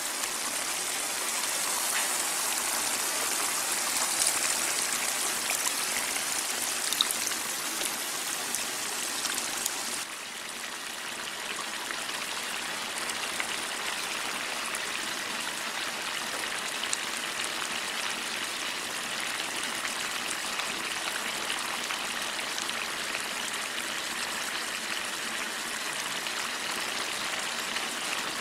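Grated carrots frying and sizzling in a large metal pan, with a few scrapes and taps of the spoon. About ten seconds in it gives way to a steadier, softer bubbling of the carrots simmering in liquid.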